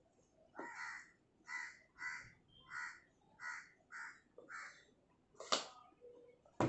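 A bird calling in a quick series of about eight short, evenly spaced calls, followed by a sharp click about five and a half seconds in and another at the end.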